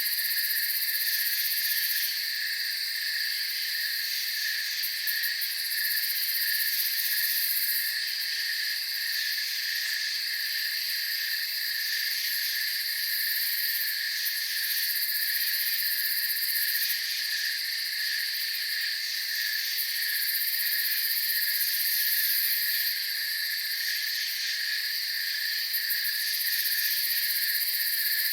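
Night insect chorus of crickets chirring steadily in several high-pitched bands, with a faint hiss above.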